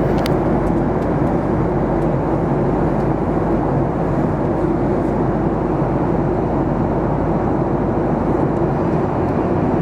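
Steady cabin noise of a Boeing 737-800 airliner on its landing approach: an even rumble of engines and rushing air with a steady low hum running through it.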